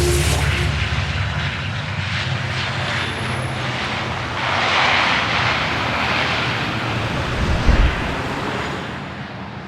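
ATR 72 turboprop airliner's engines droning steadily, with a swell of rushing noise in the middle and a brief low thump near the end.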